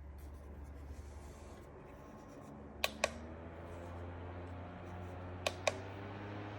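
Small desk fan's motor running with a steady low hum. Two sharp double clicks come about 3 and 5.5 seconds in, and after each the motor's pitch creeps upward as the fan speeds up.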